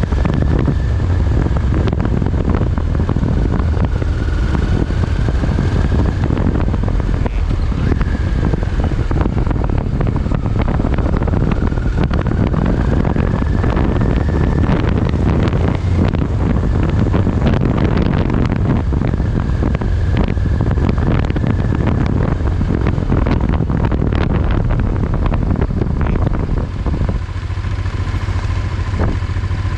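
Motorcycle running at road speed, with a steady low rumble and wind buffeting the microphone. Near the end the rush eases a little and a steady whine comes through.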